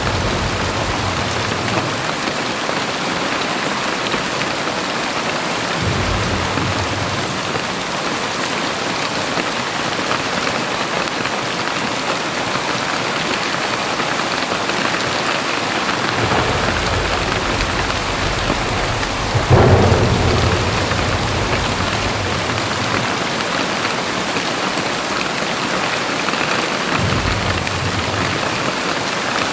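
Very heavy rain pouring steadily, with low rumbles of thunder coming and going several times and a sharper, louder clap about two-thirds of the way through.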